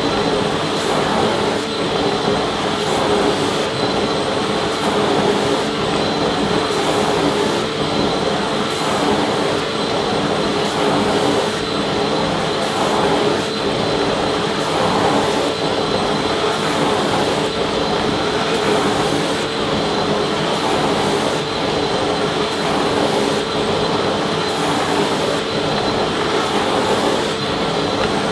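Vacuum cleaner running steadily, a constant motor whine over a rushing hiss of air.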